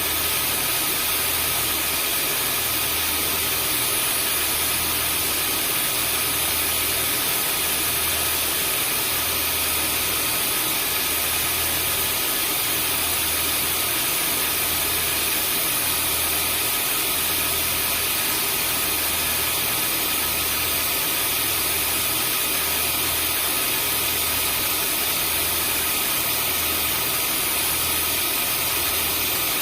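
Vacuum cleaner running continuously: a steady hiss of rushing air with a constant motor whine, and a low hum that swells and fades about once a second.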